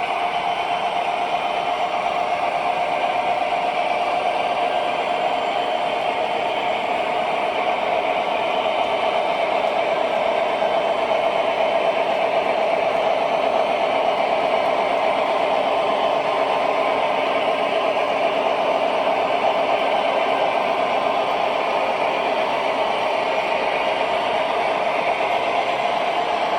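Freight train rolling past, a steady wheel-on-rail noise with rattling cars that grows a little louder midway.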